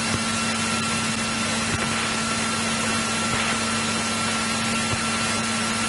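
Steady cabin noise of a Cessna 172E's Continental O-300-D flat-six engine idling, with a constant hum.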